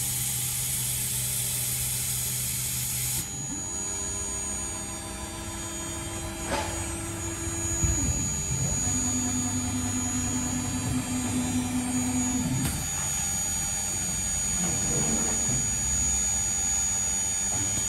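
CNC lock-hole drilling machine running, its motors holding steady tones that change pitch several times. A loud hiss in the first three seconds stops suddenly.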